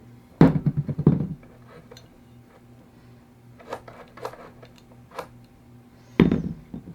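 Hard objects clattering as they are handled: a rapid rattle of knocks about half a second in, a few light clicks in the middle, and another rattling clatter near the end, over a steady low hum.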